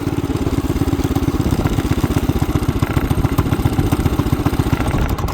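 Small 212 single-cylinder engine running on choke with a steady rapid firing beat, labouring. Near the end it suddenly loses power and fires only sparsely, close to stalling: it runs rough and almost dies out when given gas on choke.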